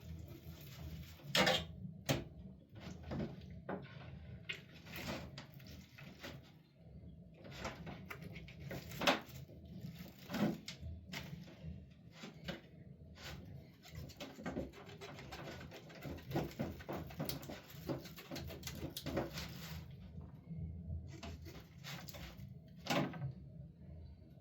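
Irregular knocks, clatter and rustling of household things being handled in a small room.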